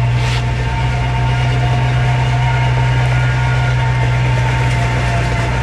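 Heavy diesel engine of earthmoving equipment running steadily with a deep, even drone and a faint steady whine above it.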